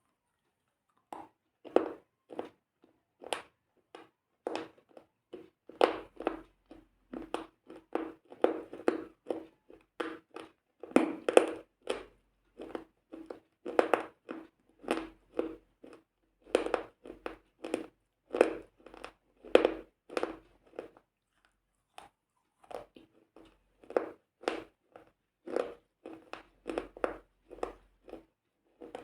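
Close-miked crunching: irregular sharp cracks, several a second, in runs with short pauses between.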